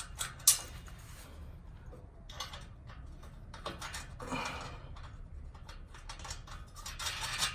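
Scattered light metallic clicks and taps of bolts and tools being handled while exhaust flange bolts are threaded back in, with a sharper knock about half a second in.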